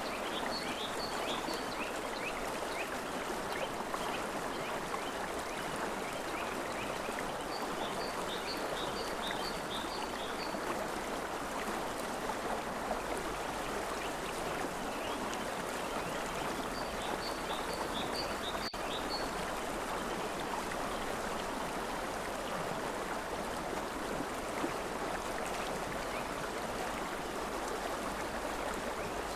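River water flowing steadily. A bird calls three times over it, each time a short run of quick high chirps.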